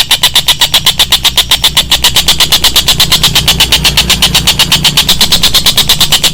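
Recorded songbird call played as training song: a fast, very even rattle of sharp notes, about ten a second, pitched high, over a steady low hum.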